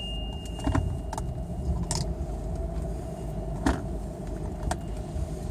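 Steady low rumble inside a stopped car in an automatic car wash, with a handful of short, sharp clicks and taps scattered through it.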